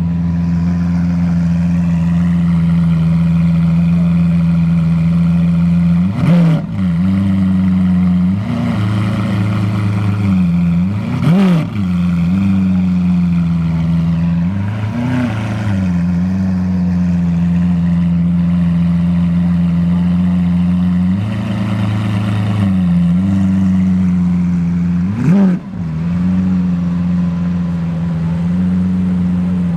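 A car engine idling, blipped several times: each rev rises quickly in pitch and drops back to idle.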